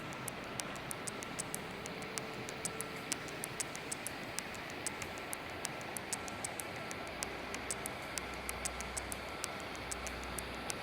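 Steady rushing noise, most likely the gorge's stream, with fast faint high ticks running through it, about four a second. A low rumble comes in about two-thirds of the way through.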